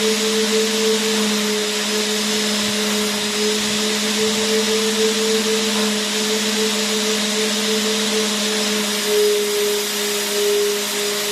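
Vacuum cleaner motor running continuously: a steady airy hiss with a constant hum, no change in pitch or level.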